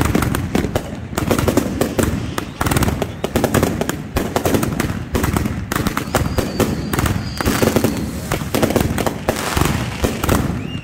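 Fireworks barrage fired at close range: a continuous rapid run of bangs and crackles, several reports a second, with a faint high whistle about six seconds in.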